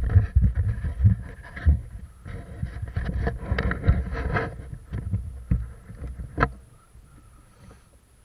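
Irregular thumps, rustling and rubbing on a body-worn microphone as the airsoft player moves, with a sharp crack about five and a half seconds in and a louder one near six and a half, after which it goes fairly quiet.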